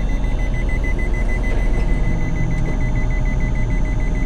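Don-1500B combine's diesel engine running steadily, heard from the cab, with a warning beeper sounding a rapid, even series of high beeps.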